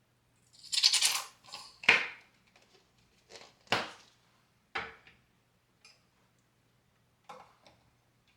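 A series of light knocks and clatters of small hard objects being handled and set down, the loudest cluster about a second in, then single knocks spaced a second or so apart.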